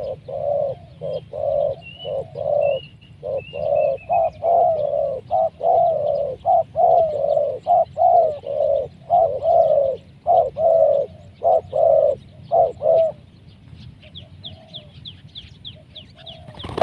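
Spotted dove (tekukur) cooing: a long run of repeated low coos, about two a second, that stops about 13 seconds in. A small bird chirps faintly and high in the background, briefly early on and again near the end.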